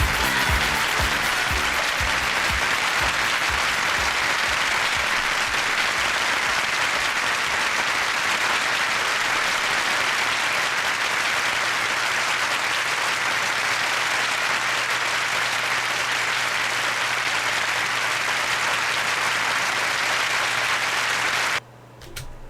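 Studio audience applauding steadily as a song ends. The applause cuts off abruptly near the end, leaving a faint low hum.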